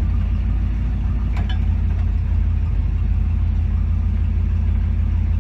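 Engine of a hot-rodded Studebaker Champion running steadily while the car drives along, heard from inside the cabin as an even, low rumble.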